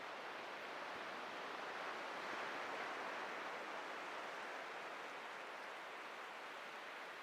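Ocean surf washing onto the beach, a steady hiss that swells a little about two to three seconds in and then eases off.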